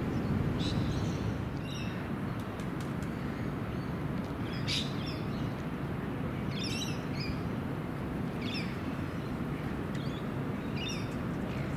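Birds chirping in short, scattered calls every second or two, the loudest near the middle, over a steady low background rumble.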